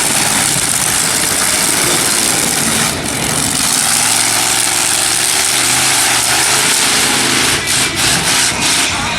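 Monster truck engine running and revving, with pitch rising and falling, under a loud steady rushing noise.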